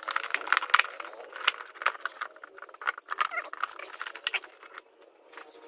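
Irregular run of clicks, taps and rattles from handling the engine's air filter and its plastic housing. The clicks are thickest in the first couple of seconds and thin out toward the end.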